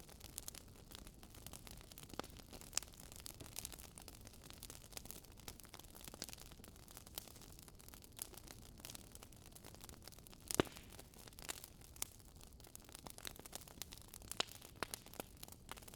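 Wood fire burning in a fireplace, crackling with many small irregular snaps over a faint hiss, and one louder pop about ten and a half seconds in.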